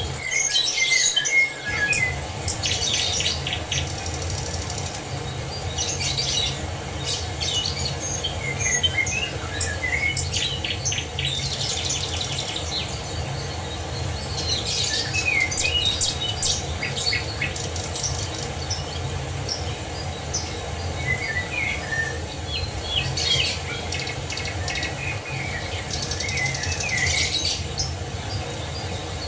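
Songbirds singing short phrases of chirps and trills every few seconds over the steady low rush of a waterfall; the rush drops out briefly near the start.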